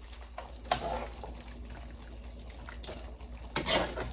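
Liquid sloshing and splashing in a cooking pan, with two louder splashy bursts, one about a second in and one near the end.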